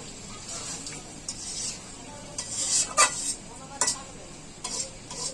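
A spoon or spatula scraping and stirring chicken curry in a pan as it sizzles, in a handful of uneven strokes with the loudest about three seconds in. This is the bhuna stage, with the meat and spices fried down while being stirred over and over.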